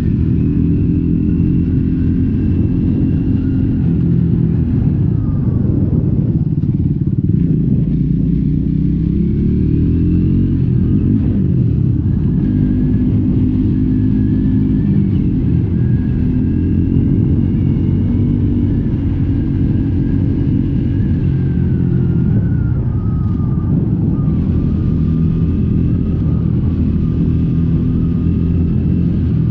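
Triumph Scrambler 400X's single-cylinder engine through its stock exhaust, running steadily while riding, its pitch dropping as the bike slows about six seconds in, then climbing again, and falling once more a little past the middle.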